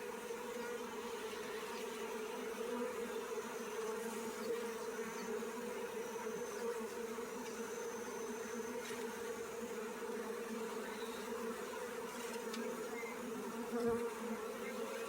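Honeybee swarm buzzing, a steady massed hum of many bees whose pitch holds level throughout.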